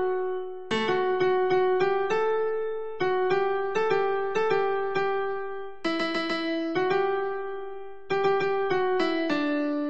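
Karaoke guide melody: a single piano-like keyboard line plays the vocal tune note by note, in short phrases with brief gaps between them.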